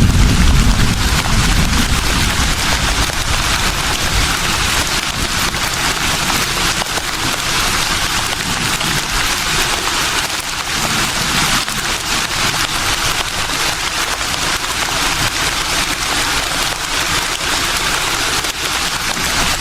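Leaves rustling steadily in a breeze, a dense even hiss with fine crackle. A low wind rumble on the microphone dies away in the first second.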